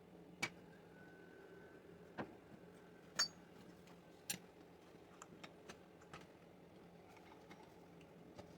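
A few sharp clicks and taps, irregularly spaced, with smaller ticks about five to six seconds in, over a faint steady hum.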